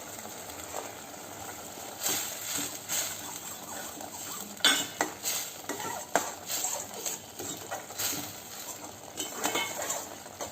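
A spoon stirring and scraping in a cooking pan, with repeated clinks starting about two seconds in, as green masala paste is fried with freshly added turmeric and coriander powder.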